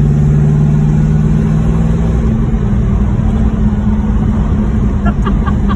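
1968 Pontiac GTO's rebuilt V8 running steadily as the car cruises, a strong low drone whose tone shifts about two seconds in.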